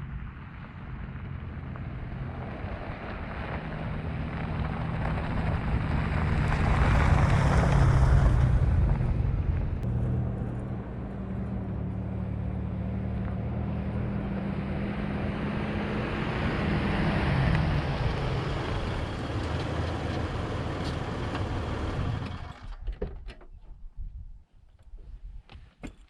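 A motor vehicle running, a steady drone with a few steps in pitch, loudest about eight seconds in; it cuts off about 22 seconds in, leaving a few faint clicks.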